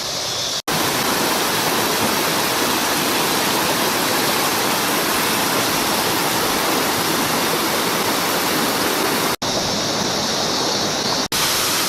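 Steady rushing of a waterfall, a dense even roar of falling water, broken by three very brief dropouts.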